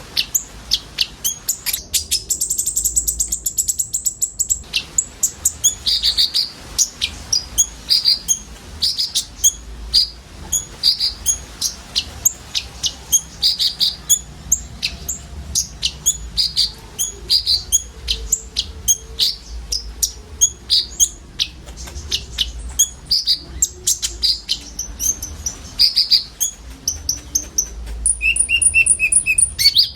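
Several olive-backed sunbirds (kolibri ninja) calling together in a dense run of quick, high chirps. A steady high trill comes about two seconds in, and another trill comes near the end.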